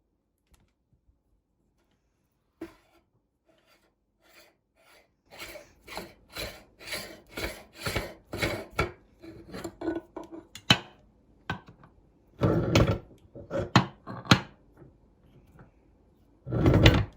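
Meat grinder working: a run of scraping, grating strokes about two a second, then two longer, louder grinding bursts near the end.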